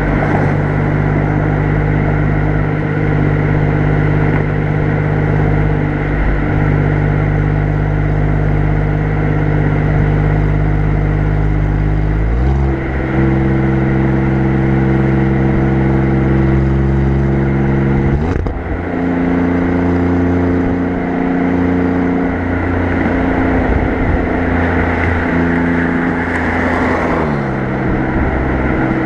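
Alfa Romeo Giulia Quadrifoglio's 2.9-litre twin-turbo V6 exhaust, heard close up from the rear bumper while cruising at easy revs. The engine note steps up in pitch twice, about twelve and eighteen seconds in, and drops back down near the end.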